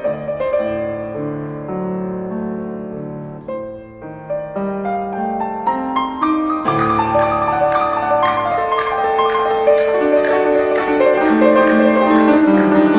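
Solo piano playing a Spanish-style piece, quieter and lower at first, then fuller and louder from about seven seconds in. There it is joined by a small hand percussion instrument striking a steady beat a little over twice a second.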